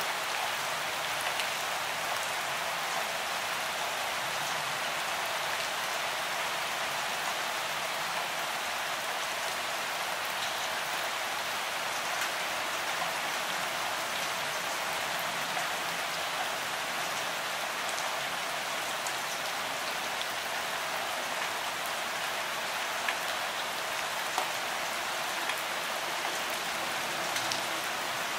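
Steady rain falling, an even hiss with little low rumble, with a few louder drop taps here and there.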